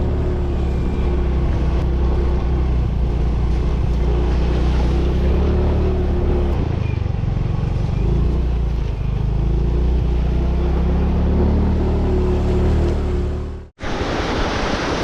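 A motor engine running steadily with a low rumble and a wavering hum. It cuts off abruptly near the end, giving way to an even rushing noise like falling water.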